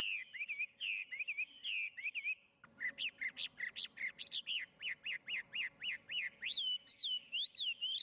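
A songbird singing: short whistled chirps, then a quick run of down-slurred notes at about four a second, turning into longer up-and-down whistles toward the end.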